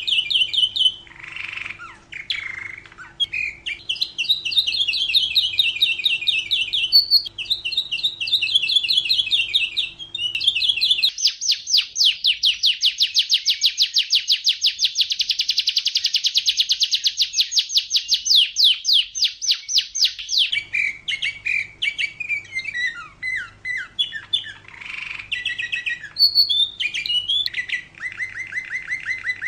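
Domestic canary singing a continuous song of rapid trills and chirps, with a long, fast trill of evenly repeated notes lasting about ten seconds in the middle.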